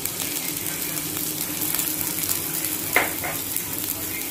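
Chopped onions, green chillies and cabbage sizzling steadily in hot oil in a kadai as diced carrots are tipped in, with one short, louder sound about three seconds in.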